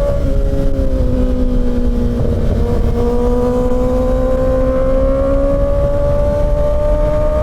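Kawasaki Ninja ZX-6R inline-four engine under way on the road. The note breaks briefly about two seconds in and drops in pitch, then climbs steadily as the bike pulls. A low wind rush runs underneath.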